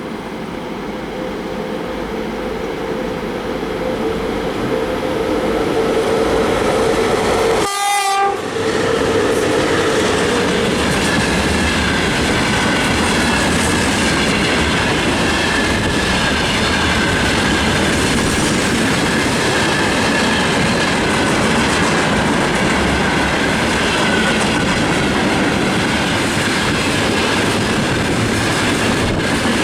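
A VL80S electric locomotive, heading a freight train, sounds its horn as it draws near: a steady low tone held for several seconds while the train grows louder. After that comes the steady rumble and wheel clatter of the freight wagons rolling past.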